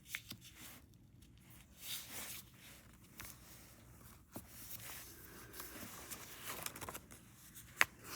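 A sheet of paper being handled and folded, with faint rustling and creasing and a sharp tap near the end.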